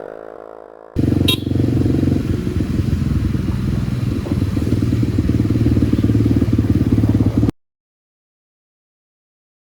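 Kawasaki D-Tracker 250's single-cylinder four-stroke engine with a White Brothers exhaust running steadily; it cuts in abruptly about a second in and cuts off suddenly about three-quarters of the way through, leaving silence. The tail of fading music is heard before it.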